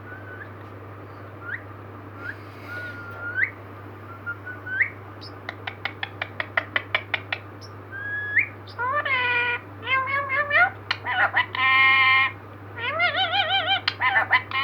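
Indian ringneck parrot vocalising: short rising whistles, then a quick run of clicks, then louder, drawn-out calls that waver in pitch.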